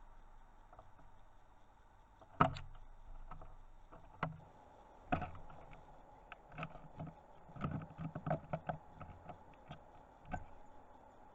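Irregular knocks and taps of birds landing on and pecking at a garden bird feeder, picked up from inside the feeder, with a loud knock about two and a half seconds in and a quick run of taps near the end, over a faint steady hum.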